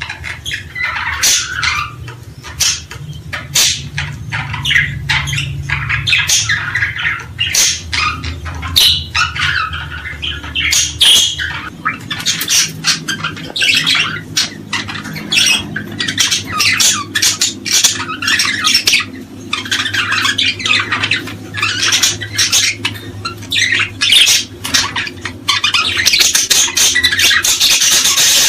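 A flock of small birds calling continuously, a dense chorus of short, sharp squawks and chirps overlapping with no break.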